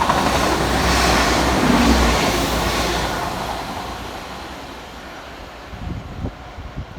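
Transport for Wales Class 197 diesel multiple unit passing fast through the station, loudest about a second or two in, then fading away as it goes. A few short dull knocks near the end.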